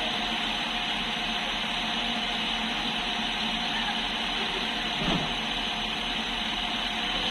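Steady mechanical hum of a passenger train standing at the platform, with a few steady tones in it. A brief soft thump about five seconds in.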